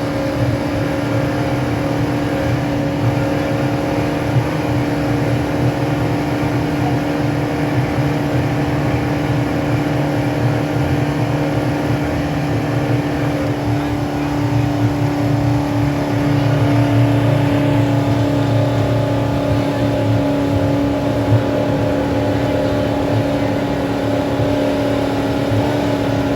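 Motorboat engine running steadily under way, a constant drone with a steady hum, a little louder for a few seconds past the middle.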